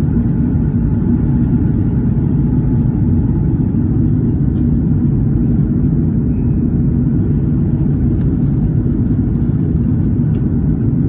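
Steady, loud roar of an Airbus A330 cabin in flight: jet engine and airflow noise heard from a passenger seat, even and unchanging.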